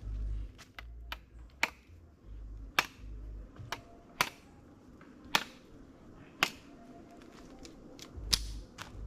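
Sharp clicks or knocks, about one a second, from hand work on a slingshot being made, with a low rumble at the start and again near the end.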